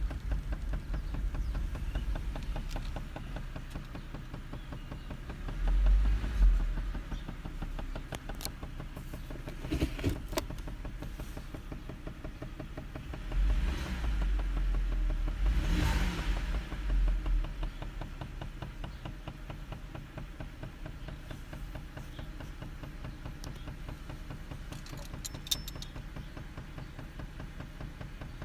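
Holden VZ Commodore Berlina engine idling with a rapid, steady knock, with louder low rumbles twice along the way.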